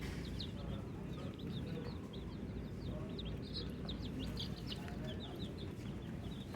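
Baby chicks peeping: many short, high, falling peeps overlapping several times a second, over a steady low hum.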